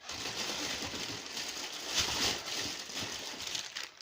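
Packaging rustling and crinkling with small irregular crackles as items are handled and unpacked.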